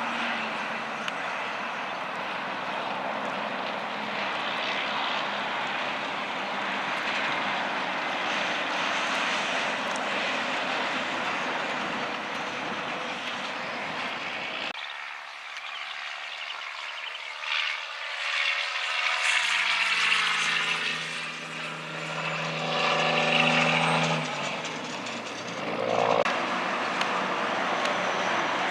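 Steady road traffic noise from passing vehicles. It cuts off abruptly about halfway through, and then a heavy truck's engine passes by, its pitch sliding as it goes past.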